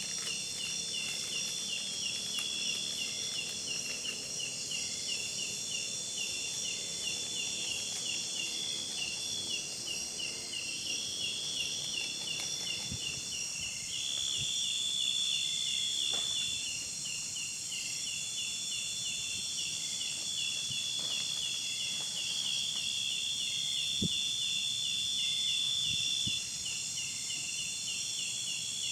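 A chorus of forest insects such as crickets and cicadas. One calls in a steady, rapid pulse of about three chirps a second, and another trills in long stretches that start and stop every few seconds over a high steady hum.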